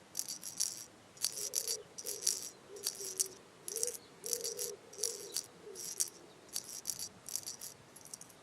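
A soft percussion rattle or shaker sound effect in a steady series of short jingly bursts, about one every half second to second, over a faint wavering low tone.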